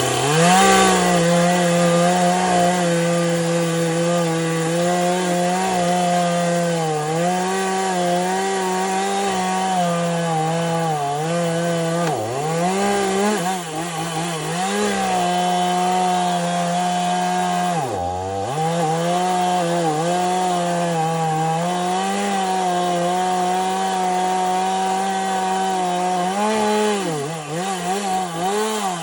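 Chainsaw running at high revs while cutting a fallen tree. Its steady engine note sags briefly now and then as the chain loads up in the wood, most deeply about 18 seconds in.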